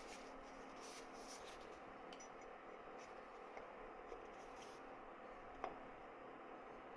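Faint rubbing and scratching as the O-ring groove of an oil filter housing is cleaned out by hand, with one small click about five and a half seconds in.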